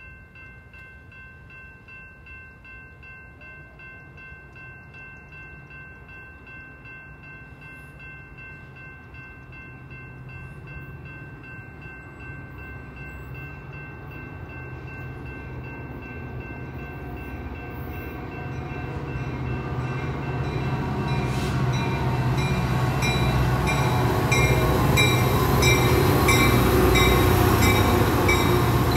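A Metra diesel-hauled commuter train approaching and passing close by, its engine rumble growing steadily louder until it is loud near the end. A bell rings in an even rhythm over the last ten seconds or so.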